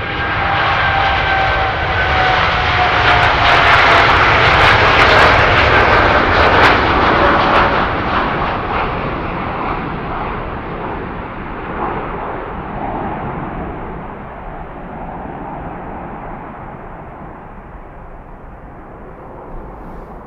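Jet airliner passing, its engine whine sliding down in pitch as it goes by. Loudest around four to seven seconds in, then slowly fading away.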